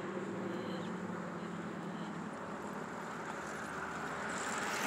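A car engine idling steadily. A rush of noise builds near the end.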